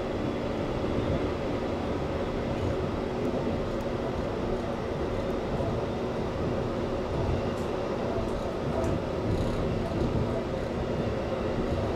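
Running noise of an E257-series limited express electric train, heard from just behind the driver's cab: a steady rumble of wheels on rail with a low hum, and a few faint clicks.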